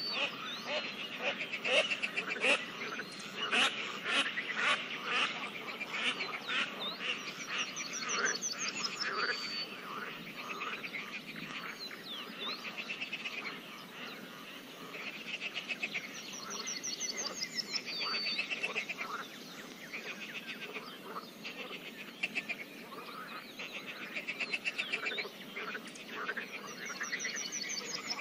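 A chorus of pond frogs croaking densely and irregularly, with a high, rising trill that comes back about every nine seconds.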